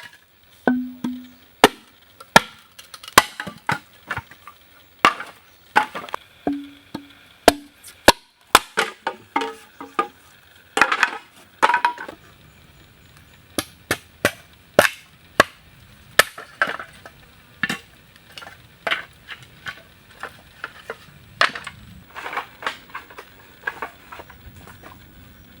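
Repeated sharp strikes of a hand tool chopping or hammering into wood, irregular, about one a second and sometimes in quick pairs, getting lighter and sparser in the second half.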